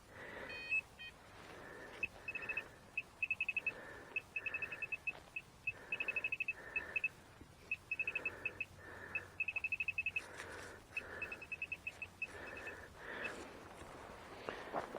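Handheld pinpointer probe beeping in rapid trains of short high beeps as it is worked around a target still in the dig hole, with soft scraping of soil between the bursts.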